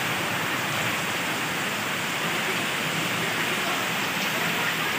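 Heavy rain pouring steadily onto wet paving, an even hiss of rainfall.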